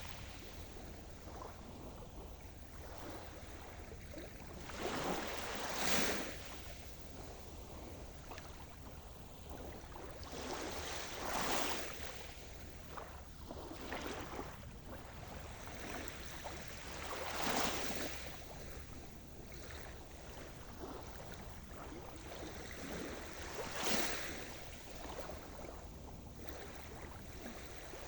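Sea surf: waves breaking on the shore about every six seconds, each a swelling wash of noise that fades back, over a steady low rumble of the sea.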